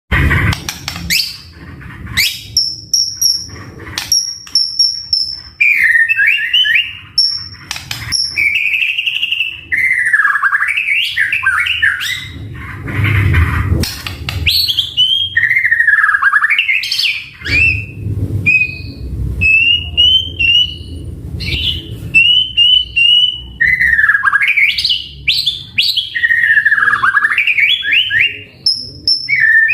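White-rumped shama (murai batu) singing a varied song of sweeping whistled phrases, high thin notes and sharp clicks, with short pauses between phrases.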